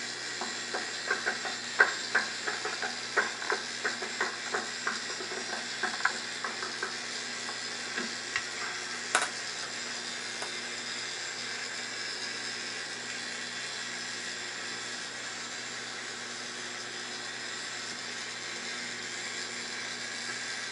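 Small electric motor of a K'NEX model motorbike running with a steady hum and hiss, its plastic parts clicking and rattling irregularly, several times a second, for about the first nine seconds.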